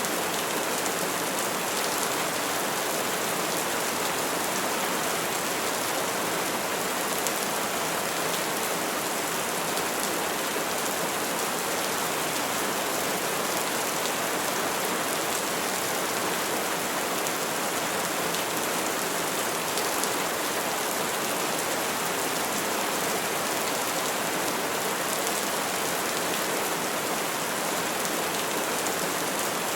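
Steady rainfall on trees: an even, unbroken hiss of falling rain with scattered faint drop ticks.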